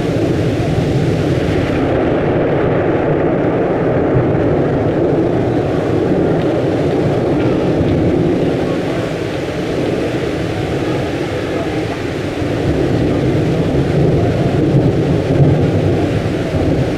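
Thunder rumbling on and on, a deep noise that swells and eases without a break.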